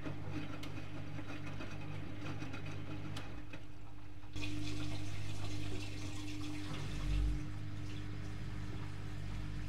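Privileg Multispar 5110 front-loading washing machine running, with a steady electric hum and water moving inside. About four seconds in, a louder rush of water starts and lasts about a second and a half, and a low thump follows a little later.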